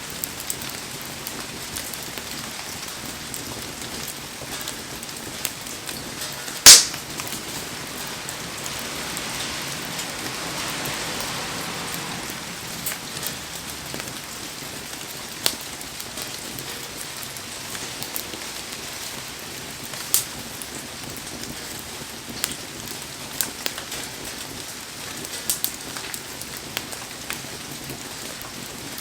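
Heavy rain falling steadily on a wood bonfire, with scattered sharp pops and cracks from the burning wood, one much louder crack about a quarter of the way in. The rain swells a little around the middle.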